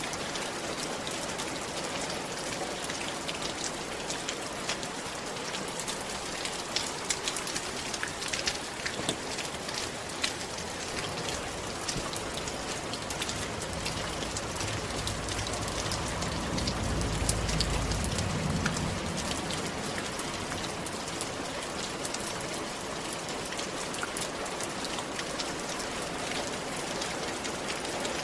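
Steady rain falling on a roof, a dense patter of individual drops over an even hiss. Around the middle a low rumble swells for a few seconds and fades.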